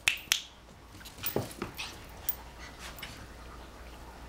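Dog giving one short falling whimper about a second and a half in, with a few faint sharp clicks around it.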